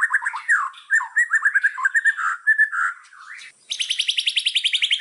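Small songbird singing: a fast run of repeated chirps, then varied short whistled phrases, and from a little past halfway a rapid trill that slides steadily down in pitch.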